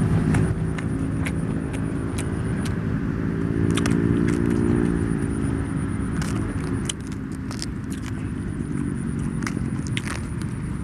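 Crunchy chewing of raw banana blossom, a scatter of sharp crackling clicks, over a steady low engine rumble from a vehicle that hums louder about four to five seconds in. A faint steady high whine runs underneath.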